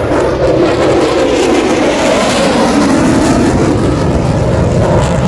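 Military jet making a low pass overhead: a loud, steady jet roar whose pitch drops as it goes by.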